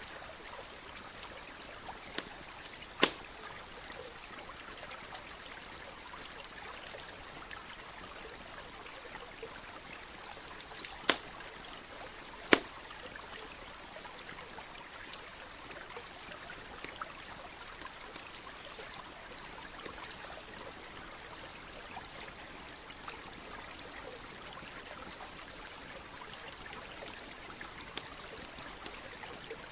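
Campfire crackling with scattered sharp pops over the steady rush of a running stream. A few pops stand out louder, around 3, 11 and 12 seconds in.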